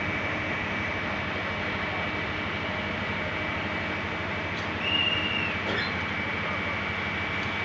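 Train running steadily, a dense rumble with a constant high whine over it. About five seconds in comes a brief, louder, higher-pitched squeal.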